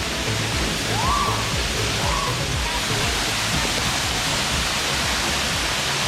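Steady rushing roar of a waterfall, with background music under it.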